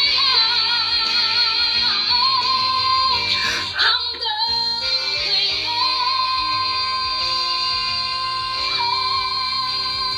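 A woman singing a Tagalog pop ballad over instrumental backing, holding long high notes with vibrato, with a short break about four seconds in.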